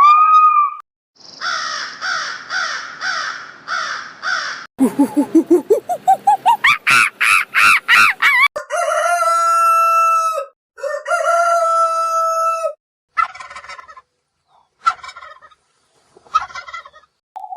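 Chickens: a string of hen clucks, then a fast cackle rising in pitch, then a rooster crowing twice in long drawn-out calls, followed by a few short clucks.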